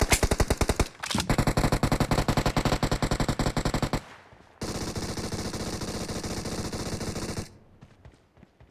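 Rapid automatic gunfire from a video game shooter: fast bursts through the first four seconds, a short break, then another sustained stream of fire until about seven and a half seconds in. After that it dies away to faint scattered shots.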